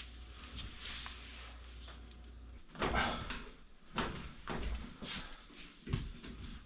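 Irregular knocks and scrapes of objects being handled. They start about three seconds in, over a low steady rumble.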